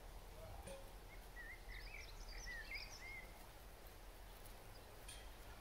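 A bird in the background singing a quick run of short rising and falling chirps for about two seconds, over a faint steady outdoor background noise.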